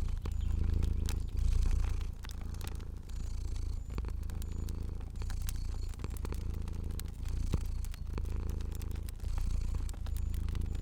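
Cat purring steadily, a low rumble that swells and eases about once a second with each breath, over scattered sharp crackles and pops from a fire.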